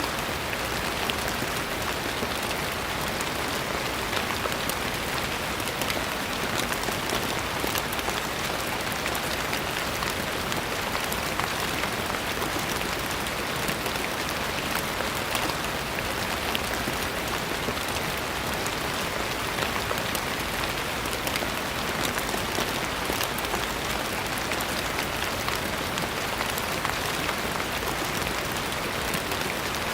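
Steady rain falling on a surface, with the patter of many individual drops over an even hiss.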